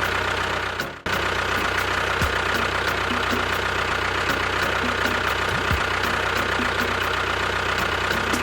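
Tractor engine idling steadily, cutting out for a moment about a second in and then running on.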